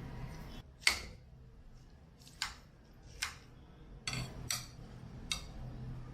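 Cutlery clinking against a bowl while eating, about six separate sharp clinks with pauses between them, the first the loudest.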